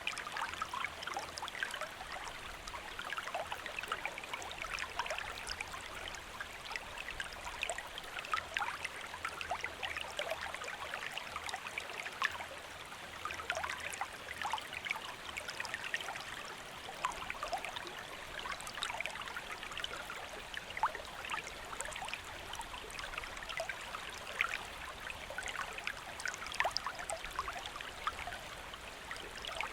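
A shallow stream running steadily over stones, a continuous rush of water full of small trickles and splashes.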